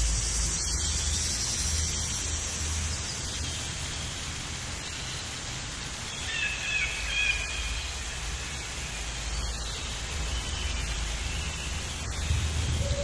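Steady outdoor background hiss with a low wind-like rumble, and a few short, wavering animal calls about six to seven seconds in.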